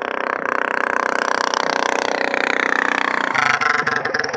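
Minibike engine running hard at a fairly steady pitch. About three seconds in, the note changes abruptly to a rougher, choppy sound.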